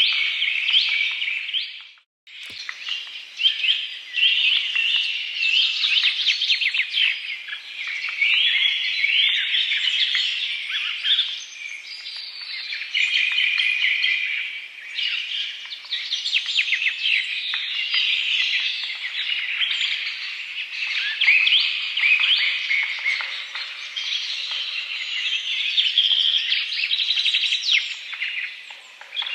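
Dense chorus of many birds chirping and singing together, a continuous tangle of short high chirps and trills. The sound cuts out completely for a moment about two seconds in.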